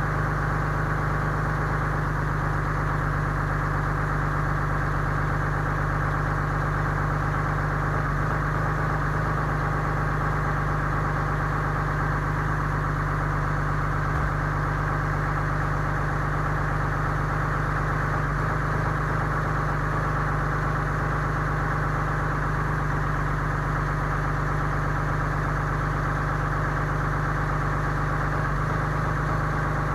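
2015 Ram 3500's 6.7-litre Cummins inline-six turbodiesel idling steadily while still cold from a 7-degree cold start.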